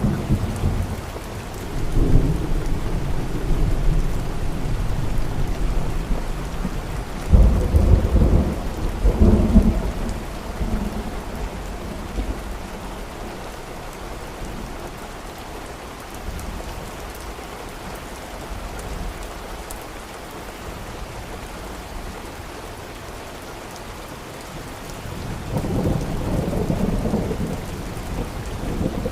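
Steady rain with rolling thunder: low rumbles swell in early on, peak in two strong claps about 7 to 10 seconds in, fade, and a further rumble builds near the end.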